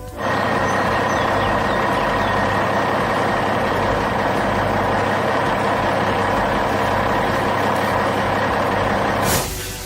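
Heavy truck engine running steadily, starting abruptly, with a short hiss about nine seconds in and then a brief drop in level.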